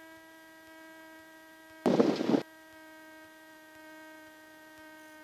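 A steady electrical hum with a constant pitch and many overtones, typical of avionics or alternator whine picked up in the aircraft's recording feed. About two seconds in, a loud burst of noise lasts about half a second.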